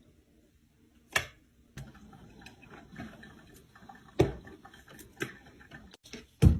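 Several sharp taps, irregularly spaced, with faint rustling between; the loudest comes near the end.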